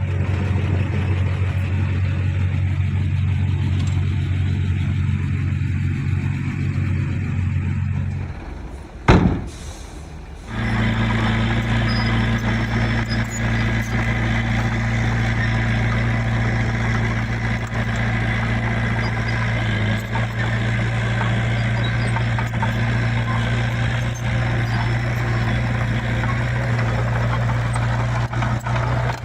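Heavy diesel engine of earthmoving machinery running steadily. About eight seconds in it drops away, a single sharp knock follows a second later, and after a short lull a diesel engine runs steadily again at a slightly higher pitch.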